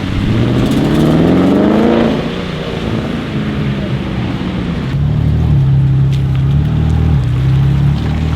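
Performance car engine accelerating hard, its pitch climbing for about two seconds before falling away, then an engine holding a steady, lower note with a brief dip near the end.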